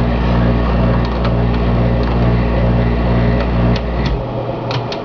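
Faulty air conditioner making a loud, low droning hum that pulses about twice a second, then cutting off suddenly about four seconds in as it is switched off. A couple of sharp clicks follow near the end.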